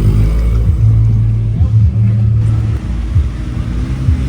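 Opel Corsa B car engine running at low revs, a steady low drone that shifts slightly in pitch.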